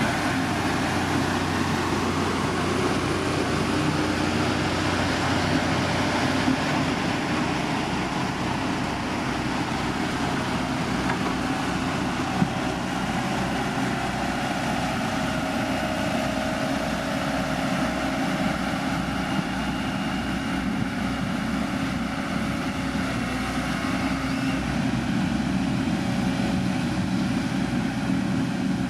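Heavy road-construction machine's diesel engine running steadily under work, with no change in pitch.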